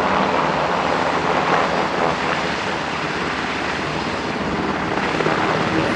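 MH-60T Jayhawk helicopter hovering, its twin turbine engines and rotor running steadily at full power for the hoist.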